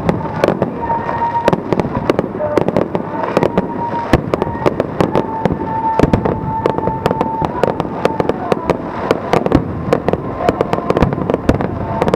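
Aerial fireworks bursting: a dense, rapid run of bangs and crackles, many a second, with a held high tone under them through the middle.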